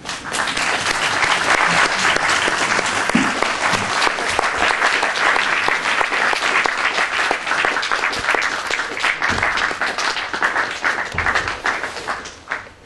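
Audience applauding: dense, sustained clapping that starts right away and dies out near the end.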